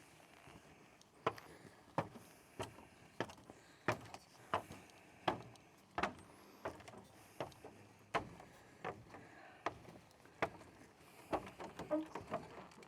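Footsteps on wooden boards, about one and a half steps a second, with a cluster of quicker wooden knocks and clicks near the end.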